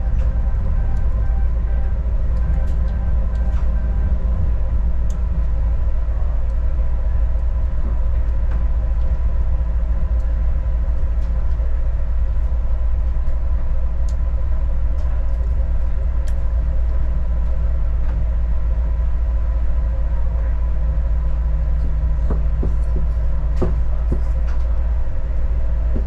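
Adelaide Metro diesel railcar running along the track, heard on board: a steady low rumble with a constant engine hum and a few faint clicks.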